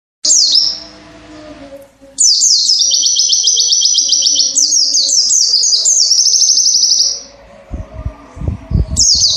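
White-eye (pleci) singing: a short falling note, then a fast, high twittering song of rapid trills and down-sweeping notes lasting about five seconds. Near the end come low, irregular thumps and another falling note.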